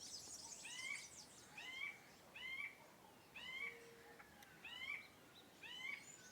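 A bird calling over and over, a short curved note about six times at under a second apart, with faint high-pitched chirping behind it.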